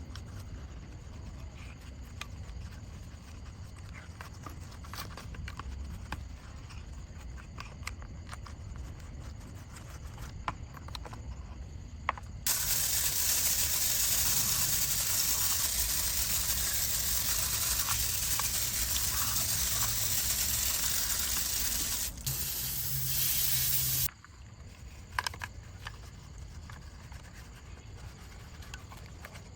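A spray of water hissing steadily onto a mud-covered die-cast model truck, starting suddenly about midway, breaking off for a moment, then cutting off sharply. Before and after it there are only faint small clicks and taps.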